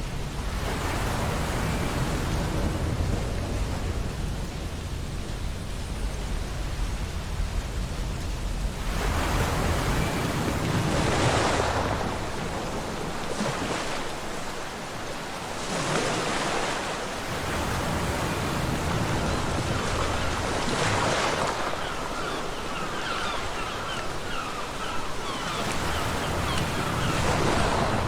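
Ocean surf on a beach: waves break in repeated surges and wash back over a steady low rumble. A run of brief, faint high chirps comes in near the end.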